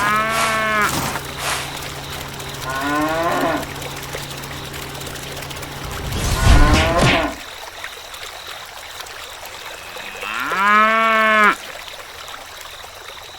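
Cattle mooing: three long calls, the first at the start, a fainter one about three seconds in, and the last near the end. A loud noisy burst comes in the middle.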